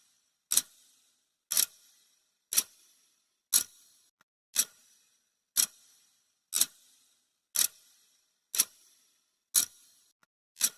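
Clock ticking sound effect, one sharp tick every second, marking the countdown timer's seconds.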